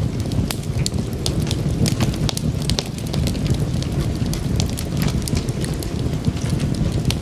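Wood fire crackling in a fireplace: a steady low rumble of burning with frequent sharp pops and snaps, several a second.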